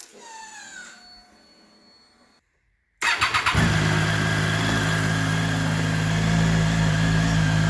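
Triumph Daytona 675R's inline three-cylinder engine starting: a brief crank about three seconds in, catching almost at once, then idling steadily. The quick start is on a battery left on a charger all day, which the mechanic thinks had never been fully charged.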